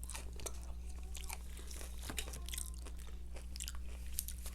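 Close-miked chewing and crunching of crispy fried chicken, a quick run of crackly bites, over a faint steady low hum.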